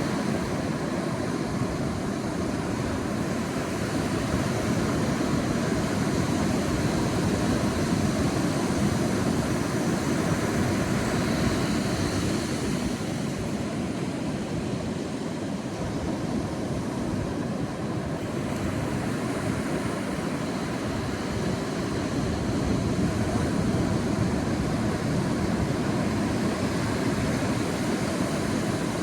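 Sea waves breaking and washing on a shore, a steady rushing that swells and eases gently every several seconds.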